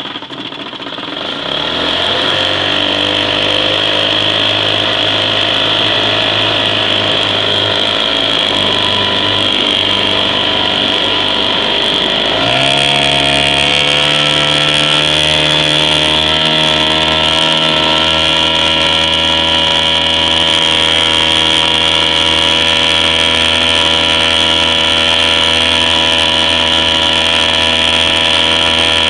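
Clinton 9 hp air-cooled two-stroke outboard motor running. It speeds up a second or two in, then is throttled up sharply again about twelve seconds in, and runs steady at the higher speed.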